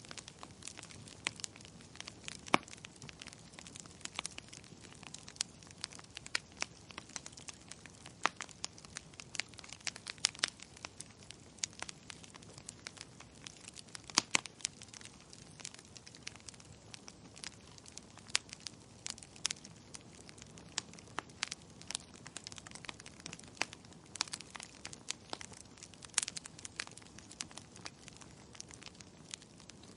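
Wood fire crackling in a fireplace: a steady low hiss with many sharp pops and snaps at irregular intervals.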